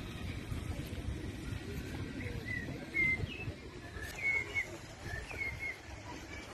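A small bird chirping: a series of short, high chirps from about two seconds in until near the end, over a low, steady rumble.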